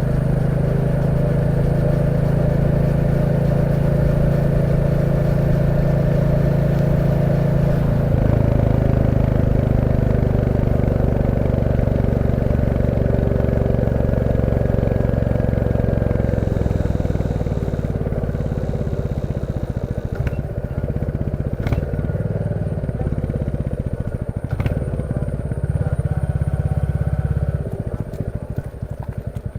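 Royal Enfield Classic 350's single-cylinder engine running steadily under riding load, then dropping in pitch as the motorcycle slows to a stop. A couple of sharp clicks come in the second half, and near the end the engine settles into a quieter, even thumping idle.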